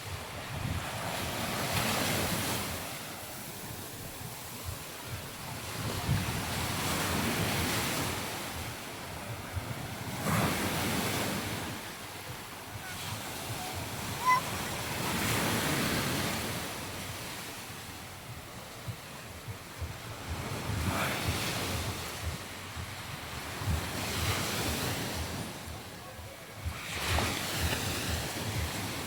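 Surf breaking and washing up the beach, swelling and fading every few seconds, with wind buffeting the microphone.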